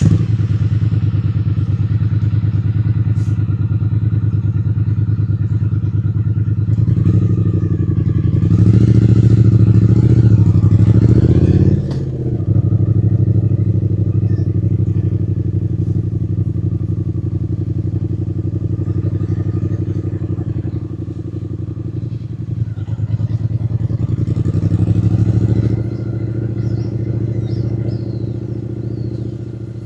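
Triumph Speed Twin 900's parallel-twin engine running under way. Its revs rise and bend twice, louder about seven to twelve seconds in and again around twenty-three to twenty-six seconds, each time dropping sharply as the throttle is rolled off or a gear is changed.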